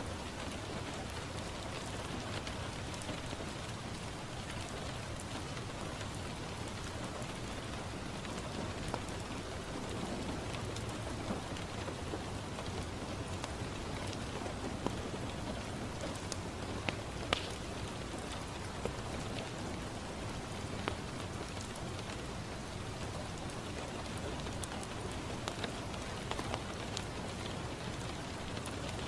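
Steady rain falling on a window, an even hiss of drops, with a few sharp pops standing out here and there, the loudest a little past the middle.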